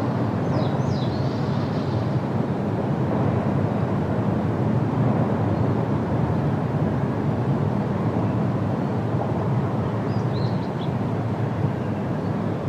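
Steady rush of wind through trees, even and unbroken. A bird gives a few brief high chirps near the start and again about ten seconds in.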